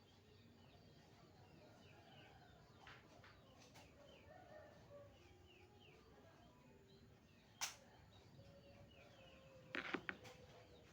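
Near-silent room tone with faint bird chirps in the background. A single sharp click comes about two-thirds of the way through, and a short cluster of clicks and knocks comes near the end.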